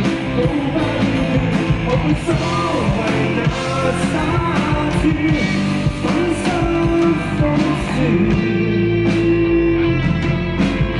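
Live band playing a pop-rock song, with electric guitar prominent.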